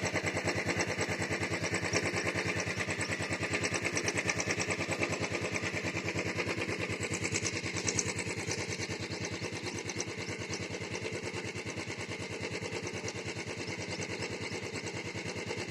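Exhaust of a Royal Enfield Bullet 350 single-cylinder engine idling, a steady even train of thumping exhaust pulses that settles a little quieter about halfway through.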